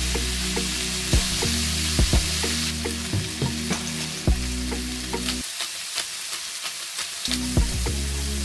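Diced bacon, mushrooms, sweetcorn and peas sizzling in a frying pan, with a few scattered light clicks. Background music with low held notes runs underneath and drops out for about two seconds after the middle.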